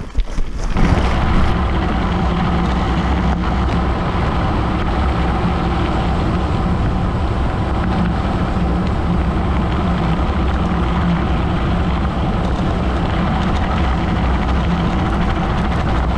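Steady rush of wind on the microphone mixed with the rolling noise of a gravel bike's tyres at speed, starting about a second in after a few short clicks.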